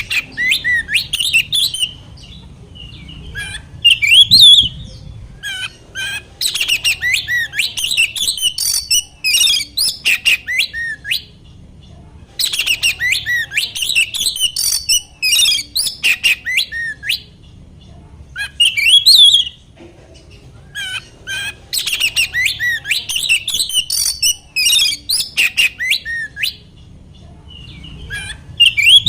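Oriental magpie-robin (kacer) singing loud, rapid, harsh whistled phrases in bursts of a few seconds with short pauses between them. This is a lure song recording meant to provoke a caged kacer into singing back.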